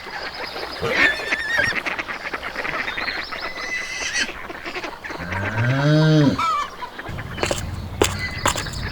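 Geese honking, mixed with clicks, and one long low call about five seconds in that rises and then falls.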